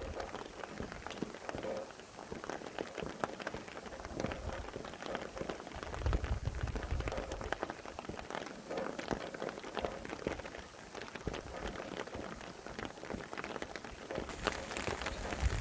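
Steady rain, many drops hitting surfaces, with a low gust of wind about six seconds in.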